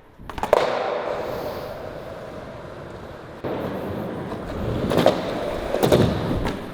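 Skateboard wheels rolling on flat ground, with sharp clacks of the board hitting the ground about half a second in and again around five and six seconds in and near the end: pops and landings of repeated flip-trick attempts.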